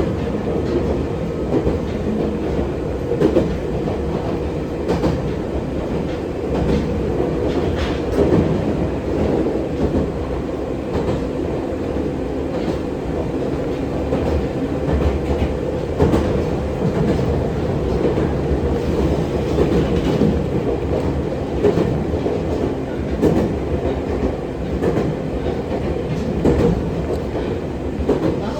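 Running sound of an Oigawa Railway 7200 series resistance-controlled electric train, heard from inside the car: the old-fashioned traction motor hum holds a steady tone, with wheels clicking over rail joints every second or two.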